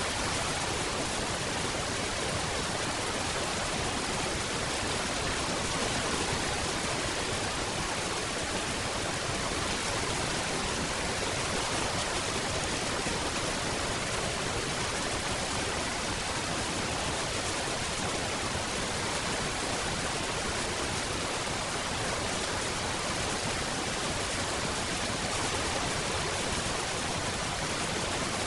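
Rain falling steadily: an even, unbroken hiss with no separate drops, thunder or other sounds standing out.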